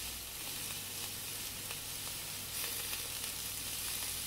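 Onions, peppers, broccoli and tomatoes frying in butter in a pan, a steady sizzle.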